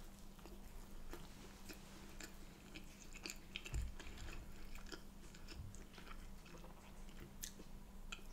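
Close-up chewing and biting of a bread roll filled with fried egg, with many small wet mouth clicks over a faint steady low hum. There is one soft low thump about four seconds in.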